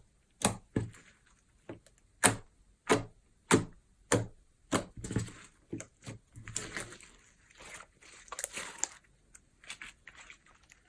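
Clear slime mixed with eyeshadow being squeezed and folded by hand, giving sharp wet clicks and pops about every half second to second, then softer, longer squishing sounds in the second half.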